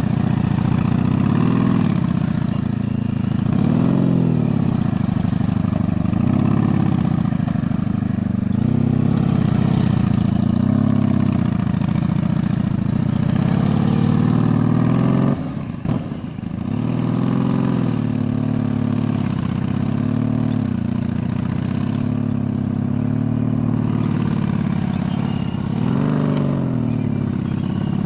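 Honda Magna V4 motorcycle engine at low speed, its pitch rising and falling again and again about every two seconds as the throttle is opened and eased off. About halfway through the sound briefly drops away, then comes back.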